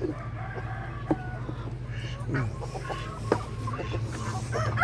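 Chickens clucking and calling in short pitched notes, over a steady low hum.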